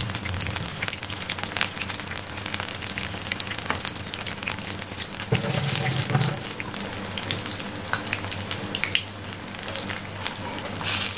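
Maida pakoras deep-frying in hot fat, a steady sizzle full of small crackles and pops, with a brief low hum about five seconds in.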